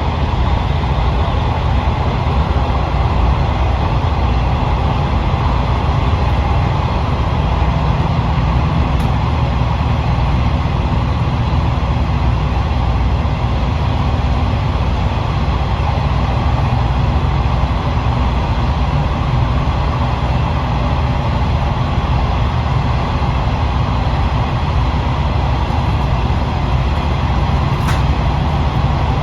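Steady running noise inside a KiHa 40 series diesel railcar: the diesel engine drone and a low rumble of wheels on rail, with a faint click near the end.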